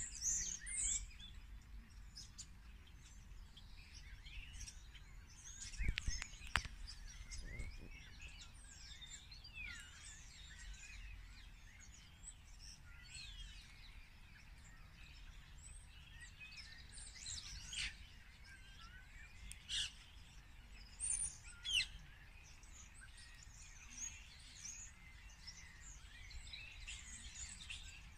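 Several songbirds chirping and singing, many short overlapping calls and trills. Two brief knocks come about six seconds in, over a low steady rumble.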